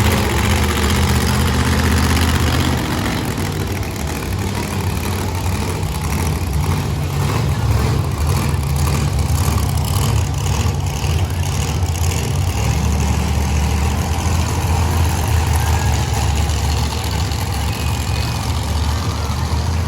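Monster truck engines running together just after start-up: a loud, deep idle whose note steps up and down a couple of times.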